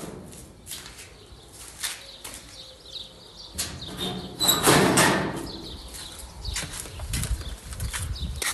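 Domestic pigeons moving about in a loft: scattered rustles and light knocks, with a louder flurry of wingbeats about five seconds in.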